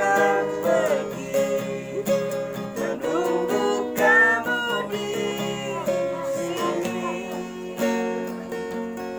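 Acoustic guitar playing the chords of a pop ballad, with a gliding melody line above them in places.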